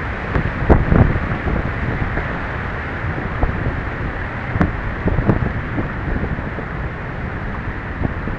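Steady rushing of a large waterfall close by, mixed with wind buffeting the microphone and a few short knocks.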